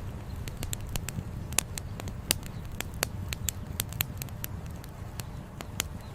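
Campfire wood crackling, with irregular sharp pops several times a second, a few of them louder, over a steady low rumble.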